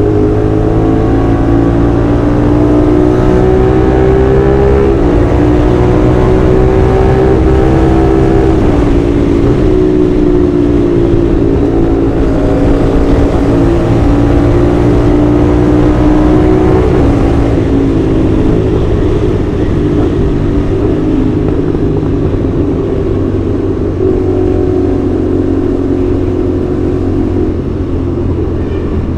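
CFMoto 450SR's 270-degree-crank parallel-twin engine and exhaust, running under way at a fairly steady pitch that dips and picks up again a few times.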